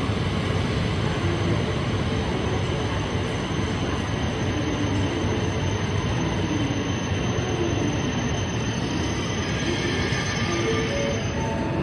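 Tohoku Shinkansen bullet train moving along a station platform, a steady loud rush of running noise with a few short faint squealing tones.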